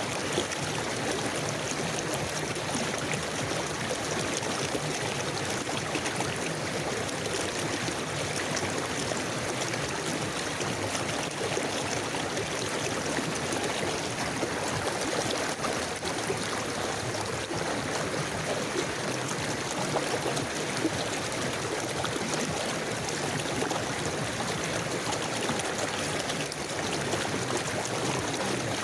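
A river or stream flowing steadily, the water rushing and gurgling at an even level.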